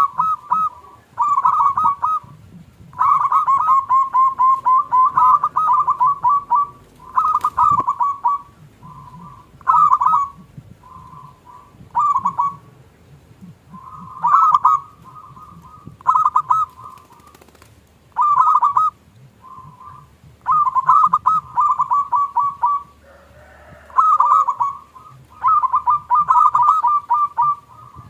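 Zebra dove (perkutut) cooing: repeated phrases of quick staccato notes, a dozen or so phrases with short gaps between them.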